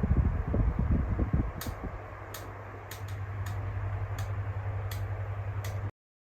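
Electric fan running with sharp clicks from its oscillation mechanism, about one every half to three-quarters of a second over a steady motor hum. This is the clattering, clicking fault noise of the head-swing mechanism. Low air rumble at first; the sound stops abruptly near the end.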